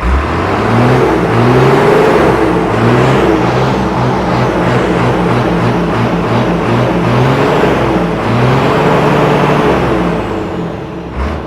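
Old Ford truck engine running and being revved, its pitch rising and falling again and again, then settling lower near the end.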